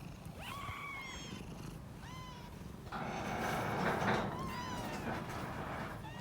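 Young kittens mewing: several short, thin, high calls that rise and fall, over a steady low purr. From about three seconds in a louder stretch of noise rises under the mews for a second or so.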